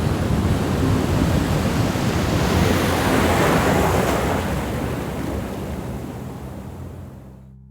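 Sea surf: waves washing in, the rush swelling about three seconds in and then fading slowly away.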